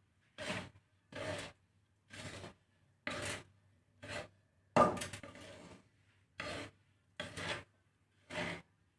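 A spatula scraping and stirring a mix of white and red millet, foxtail millet and black glutinous rice as it is dry-roasted in a pan, in rasping strokes about once a second; one stroke about five seconds in is louder.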